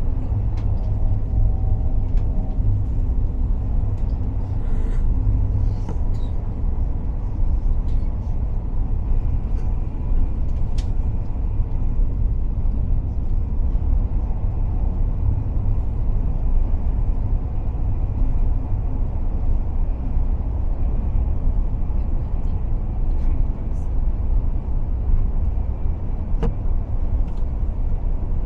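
KTX high-speed train running at speed, heard from inside the carriage as a steady low rumble, with a few faint ticks.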